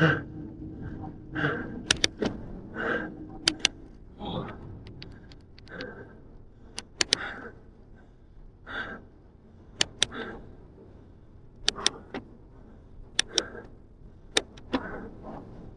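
A cyclist breathing hard and rhythmically while pedalling up a steep hill, about one breath every second and a half, with sharp clicks and rattles from the bike between breaths.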